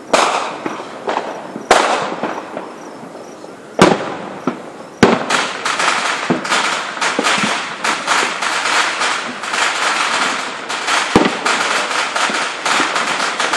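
Fireworks show: single loud booms a second or two apart for the first five seconds. Then, from about five seconds in, a dense rapid crackling barrage of many small cracks and pops with occasional louder bangs.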